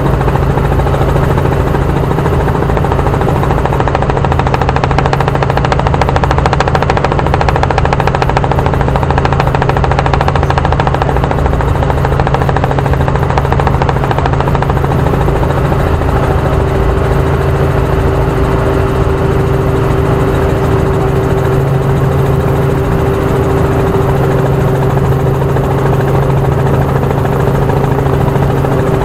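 Helicopter in flight, heard from on board: a loud, steady engine and rotor drone with a fast, even beat of the blades.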